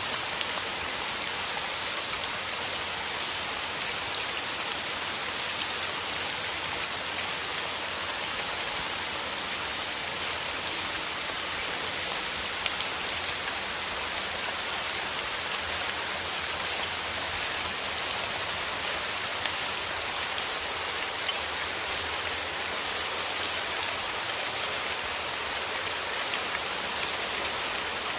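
Steady rain falling: an even, dense hiss with fine ticks of individual drops.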